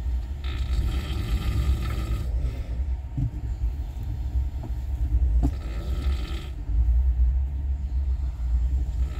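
Netravati Express passenger train running on the track with a steady low rumble. Twice a high metallic squeal rises over it, from about half a second in for nearly two seconds and again about five and a half seconds in for a second, with a sharp knock just before the second squeal.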